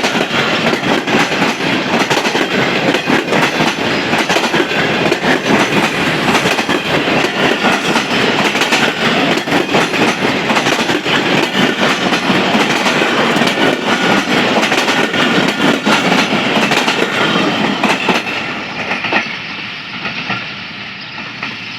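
Tezgam Express passenger coaches rolling past on the track, wheels clattering over the rail joints in a rapid clickety-clack. The sound drops away about 18 seconds in as the train passes.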